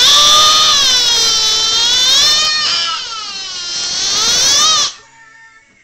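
A child yelling a long, high-pitched 'ahh', the pitch swaying up and down. It breaks briefly partway, then a second held yell follows and cuts off sharply near the end.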